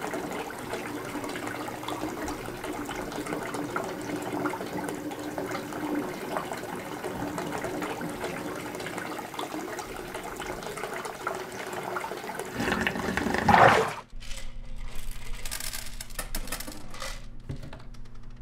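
Water running and churning, swelling to a loud surge about thirteen seconds in, then cutting off suddenly. A quieter low hum with a few faint clicks follows.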